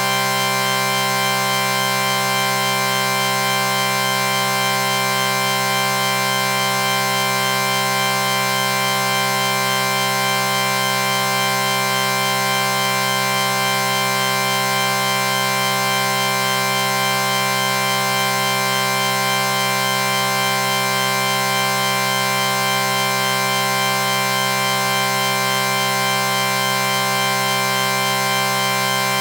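A chorded sound effect: one steady chord of many tones held without change or break.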